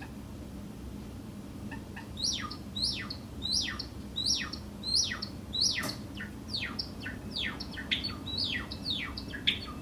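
Small pet bird calling: a run of short, steeply falling chirps that starts about two seconds in and comes faster in the second half, at roughly two a second.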